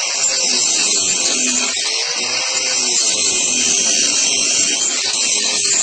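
Angle grinder fitted with a Saburtooth carbide carving wheel, running steadily as it grinds into wood, its pitch wavering a little as the load changes.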